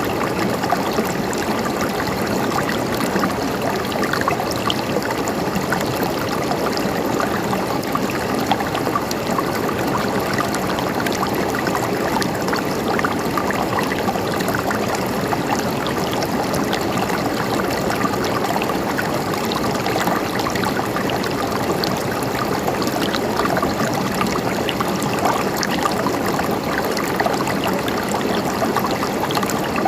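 Stream water flowing and trickling steadily, a dense even rush with fine babbling crackles throughout.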